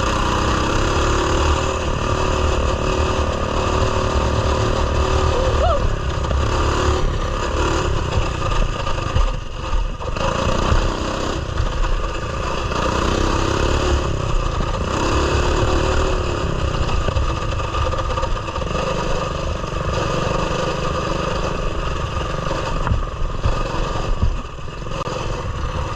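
Coleman mini bike's small single-cylinder engine running while being ridden, speeding up and easing off several times.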